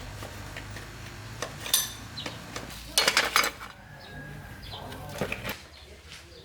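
Metal clinking and knocking: a few sharp strikes with a short ring, the busiest cluster about three seconds in, as metal tools or parts are handled.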